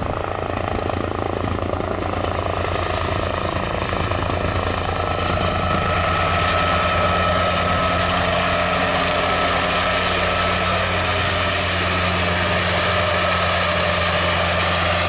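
Helicopter close by: the rotor beats rapidly over a low hum and a high steady whine. It grows louder over the first few seconds, then holds steady.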